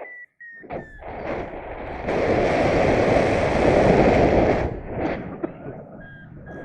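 Wind rushing and buffeting over the microphone, loudest in a gust from about two seconds in to near five seconds. A steady electronic beep-tone at the start, pitch sinking slightly, is typical of a paragliding variometer.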